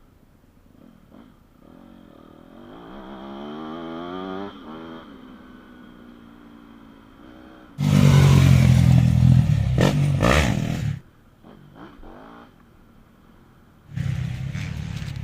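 Yamaha YZ250F four-stroke motocross bike engine revving on the track. A few seconds in, a fainter pass climbs in pitch; then come two loud close bursts of hard throttle, the first about three seconds long, each starting and stopping suddenly.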